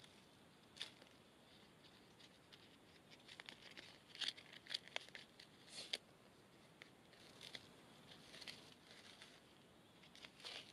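Faint crinkling and tearing of plastic food packaging and cling film being handled and peeled off a tray, with a cluster of sharp crackles and ticks in the middle.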